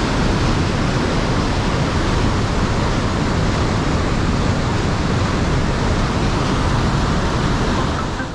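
Rearguard Falls cascades on the Fraser River rushing in a loud, steady roar of falling water. It cuts off abruptly at the very end.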